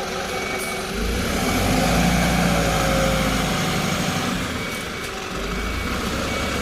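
Ashok Leyland 3525 tipper truck's diesel engine running, revving up about a second in and easing back down around four seconds. Faint reversing beeps sound near the start and again near the end.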